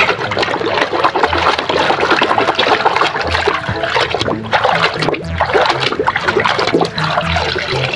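Water splashing and trickling as a muddy toy is washed by hand, with many small knocks of the toy being handled.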